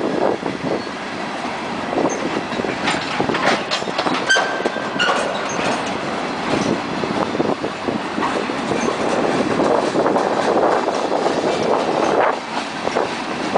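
Freight train cars rolling past close by, the wheels clattering over the rail joints, with a brief high wheel squeal about four seconds in.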